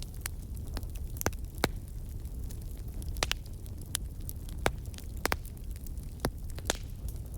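Wood fire crackling in a fireplace: a steady low rumble of the flames with about ten sharp, irregular pops and snaps.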